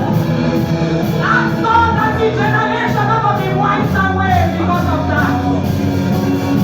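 Gospel worship music: voices singing a melody over steady instrumental accompaniment with sustained low notes.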